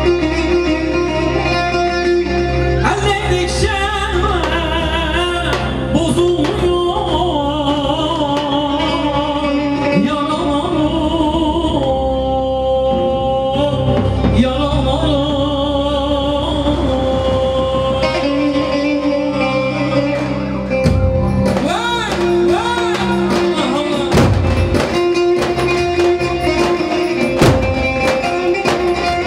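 Turkish wedding band music: a singer's slow, ornamented melody over sustained instrumental tones. Heavier low beats come in about two-thirds of the way through.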